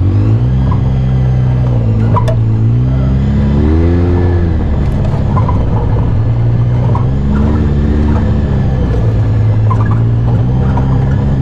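Off-road vehicle engine running under throttle, its pitch rising and falling several times as the rider eases on and off the gas over a steady drone.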